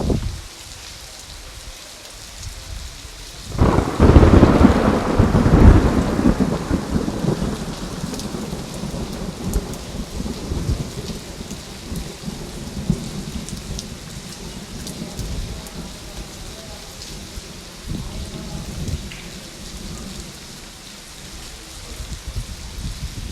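Steady rain falling, with a thunderclap breaking out suddenly about four seconds in and rumbling away over the next several seconds.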